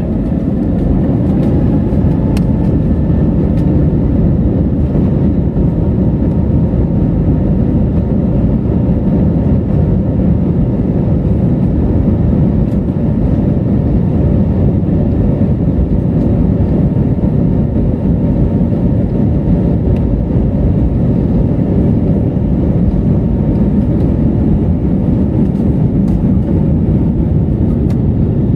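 Airplane running steadily: a loud, even low rumble with a faint steady whine above it.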